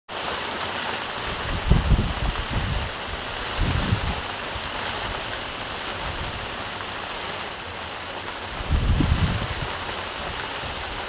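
Heavy rain pouring down in a steady, dense hiss, with three short low rumbles along the way.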